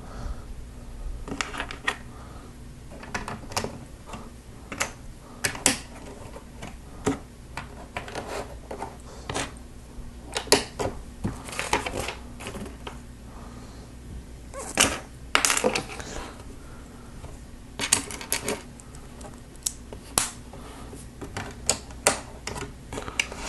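Plastic Lego bricks and plates clicking and snapping together as they are handled and pressed into place, a string of irregular sharp clicks and taps.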